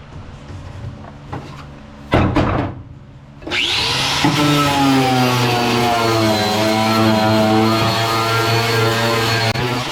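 A handheld electric power tool spins up with a rising whine about three and a half seconds in, then runs steadily on the Nova's floor pan metal, its pitch dipping slightly under load. Before that there is a short loud clatter about two seconds in.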